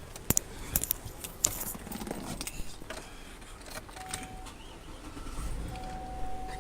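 Handling noises inside a car: several sharp clicks and a rattle in the first second and a half, then a low rumble and a steady high tone beginning near the end.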